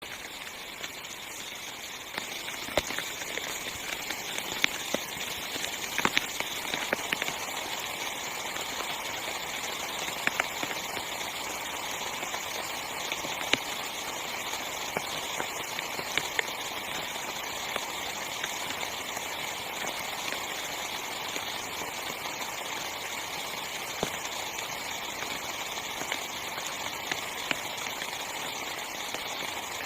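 Heavy rain falling on a small tent: a steady hiss of rain with frequent louder single drops striking the tent fabric. The rain grows louder about two seconds in.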